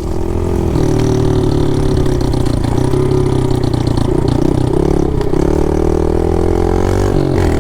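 Pit bike engine running steadily under a rider, its pitch wavering briefly about halfway through and dipping for a moment near the end.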